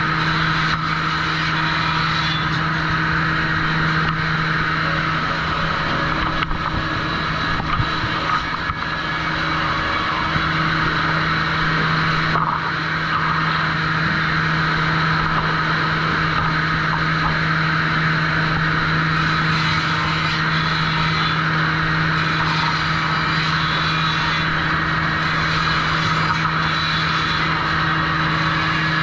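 Sawmill trim saw machinery running steadily: a constant low hum with a continuous whir above it and a few faint knocks.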